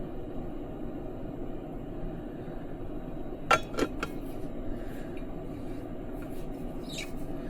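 A few light clicks and clinks of a cereal cup and its contents being handled, about halfway through, over a steady low hum.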